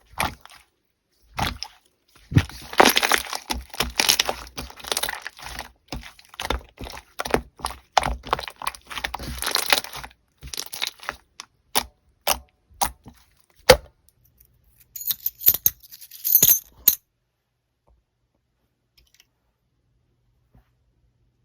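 Slime being squeezed, pressed and poked by hand, giving runs of crackling clicks and small pops that stop about three-quarters of the way through.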